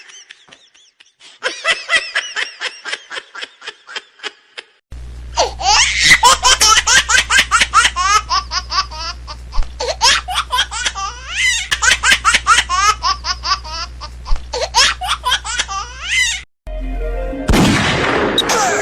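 A young child laughing hard in long runs of quick, high-pitched bursts, with a steady low hum under the louder stretch. Near the end a different, noisier sound with music cuts in.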